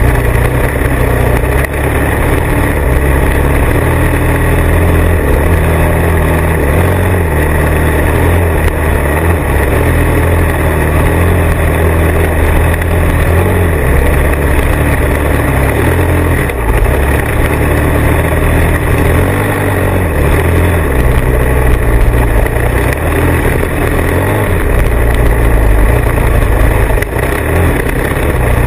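Motorcycle engine running while riding, its low note rising and falling as the throttle changes, under a constant rushing noise.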